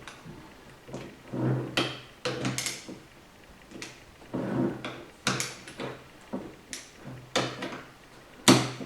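Irregular clunks and knocks of metal transmission parts and tools being handled and set down, a dozen or so in a few seconds, the loudest near the end.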